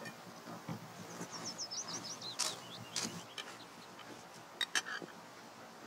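A songbird sings a quick run of chirps falling in pitch, about a second in. Faint background noise and a few scattered sharp clicks and knocks go with it.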